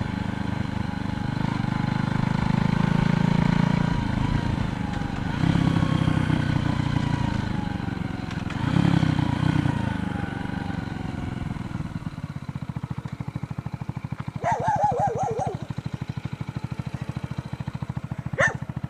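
Motor vehicles passing on a road, their engine sound swelling and fading about three times in the first ten seconds with gliding pitch as they go by. Later a fast, steady pulsing continues, with a short warbling call about fifteen seconds in and a sharp sound near the end.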